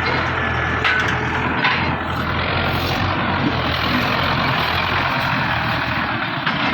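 Massey Ferguson 260 tractor's diesel engine running steadily.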